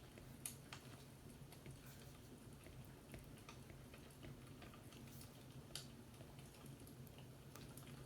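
Faint fireplace crackle: irregular small pops and snaps over a low steady hum, with two sharper pops about half a second in and near six seconds.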